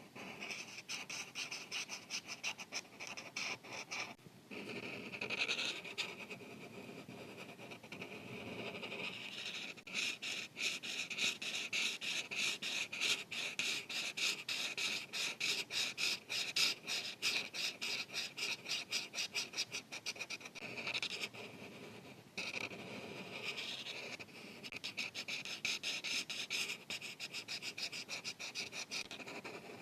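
Felt-tip marker scratching back and forth on paper in rapid strokes, filling in a colored area, with brief pauses about four seconds in and again past the twenty-second mark.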